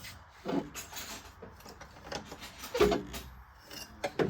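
Metal hand tools clanking and scraping, as sockets and wrenches are handled: several separate knocks and rubs, the loudest with a low thud nearly three seconds in.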